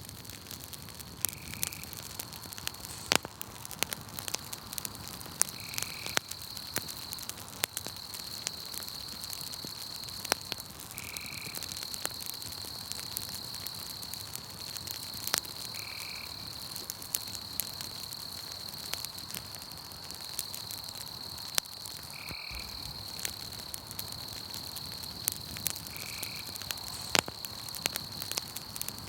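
Campfire crackling with many sharp pops, over a steady high trill of night insects and a short call that repeats every four to six seconds.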